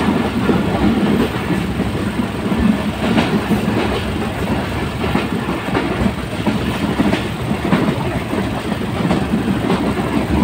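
Passenger train running along the track: a steady rumble with irregular clicks of the wheels over the rail joints.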